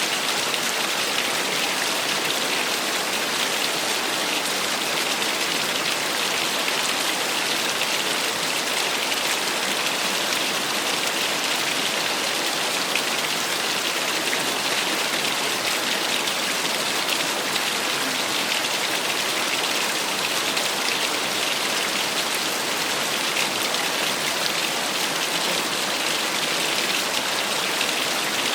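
Small waterfall splashing steadily: an even, unbroken hiss of falling water, mostly high-pitched with little low rumble.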